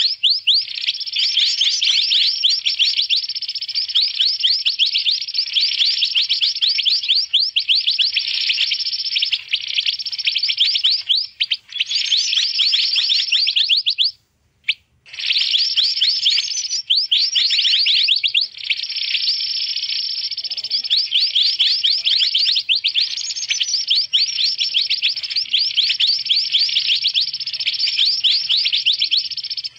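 Mantenan birds calling excitedly: a dense, unbroken stream of rapid high chirps and trills, breaking off for about a second near the middle. It is an agitated chorus of the kind used as a lure call for trapping mantenan.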